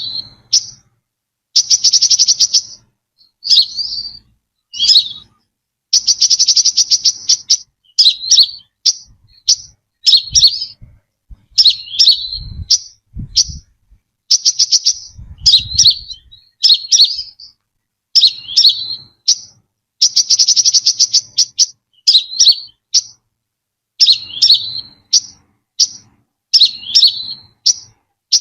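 Brown-throated sunbird calling loudly and repeatedly. Short sharp chirps that sweep down alternate with rapid buzzy trills, phrase after phrase with short pauses between.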